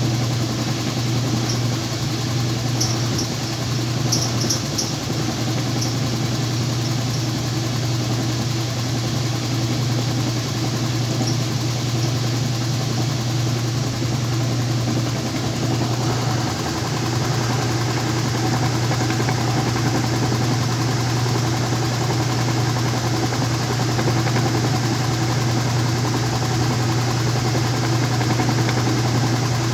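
Whirlpool top-load washing machine in its spin cycle, the drum spinning steadily with a constant low motor hum. The owner suspects the motor may be sticking.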